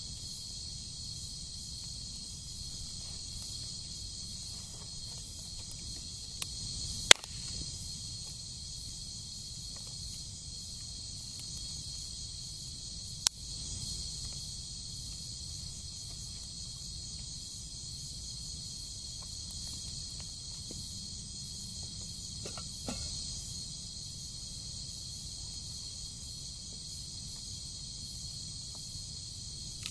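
Steady, high, pulsing chorus of forest insects, with a few sharp clicks; the loudest click comes about seven seconds in and another about thirteen seconds in.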